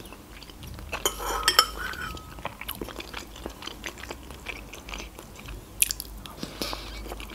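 Close-miked chewing of soft avocado eaten off a spoon: wet mouth smacks and small clicks, with a denser run of them about a second in and one sharp click near the end.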